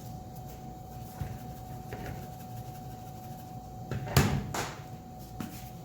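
A few knocks and clatters from kitchen containers being handled and set down on a counter, the loudest cluster a little past the middle, over a steady faint hum.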